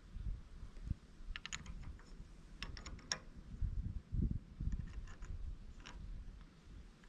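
Small sharp clicks and taps of hydraulic fittings and hand tools being handled, coming in three short clusters, over low thuds and rumble.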